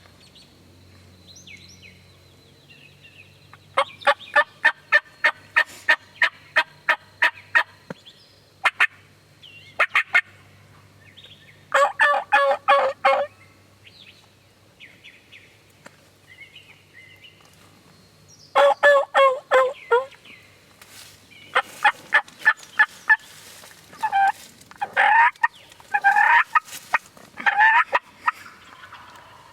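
Wild turkeys calling: a rhythmic run of about a dozen short yelps, then rattling gobbles about twelve and nineteen seconds in, followed by more yelps and calls near the end.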